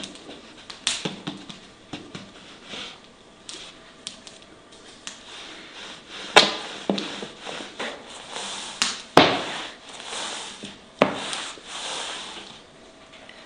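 Irregular knocks, taps and scraping, with three sharp knocks standing out about halfway through, around two-thirds of the way in and near the end.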